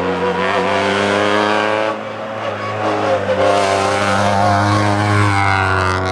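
Rally car engine running hard at high revs, a steady pitched note with a brief drop in loudness about two seconds in before it pulls again.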